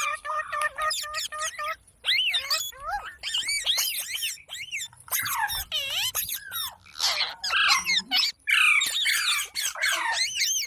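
Parrot chattering and squawking. A fast run of short repeated chirps comes first, then a string of varied squawks and whistled calls with short gaps between them.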